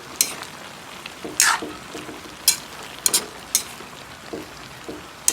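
A cooking utensil stirring vegetables in a pan, giving several sharp scrapes and clicks against the pan over the steady hiss of the vegetables simmering.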